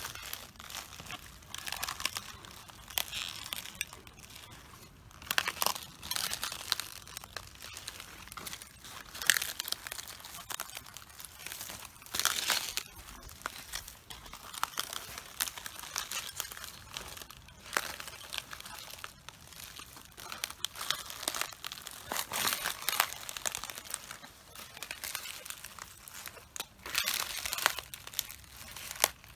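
Footsteps crushing cabbages: the leaves crunch, crackle and tear under each step, in irregular bursts every second or two.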